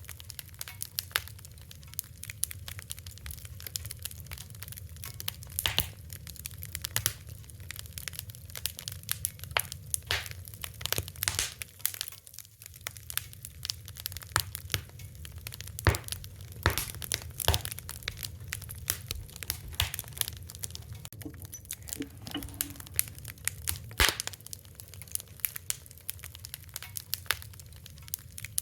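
Fire crackling: dense, irregular snaps and pops over a low steady rumble, with a few louder pops past the middle.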